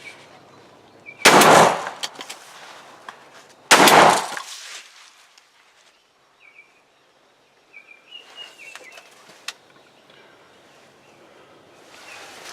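Two shots from a semi-automatic shotgun, about two and a half seconds apart, each a sharp blast that dies away quickly. The first shot missed the turkey and the second hit it as it ran.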